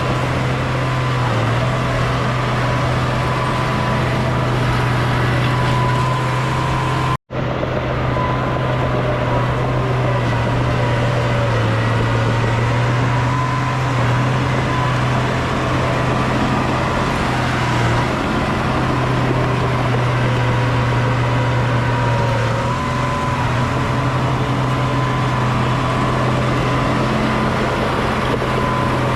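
Heavy diesel engine of a bulldozer running steadily under work, a constant low drone. The sound drops out for an instant about seven seconds in.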